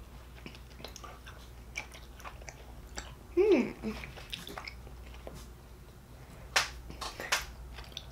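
Mouths chewing soft, chewy Starburst fruit candies, with small wet clicks and smacks. A short falling "mmm" hum comes about three and a half seconds in, and a sharp smack about six and a half seconds in.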